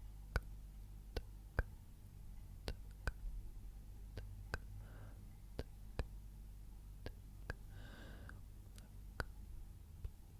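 ASMR clicking: sharp, quiet clicks at an irregular pace of about one or two a second, with two brief soft breathy sounds near the middle, over a faint low hum.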